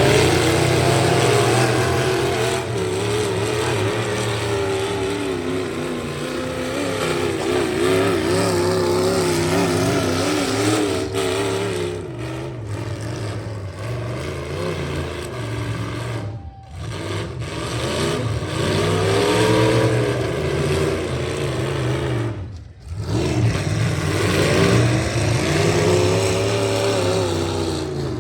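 Full-size V8 pickup trucks' engines revving hard in a demolition derby, the pitch rising and falling as they accelerate and push. The sound cuts out briefly twice in the second half.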